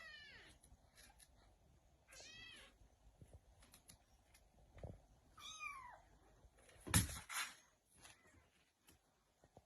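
A cat meowing in a few short calls, about two seconds in and again near six seconds, the later one falling in pitch. Two sharp knocks come close together about seven seconds in and are the loudest sounds.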